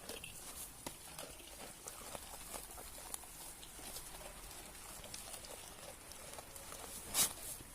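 Goats eating fodder from the hand: scattered small crunching and rustling clicks, with a brief louder noise about seven seconds in.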